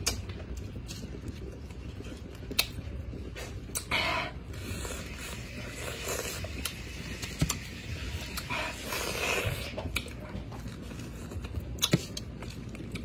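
A person biting into and chewing raw unpeeled pineapple, eaten rind and all, in short noisy bouts with a few sharp clicks.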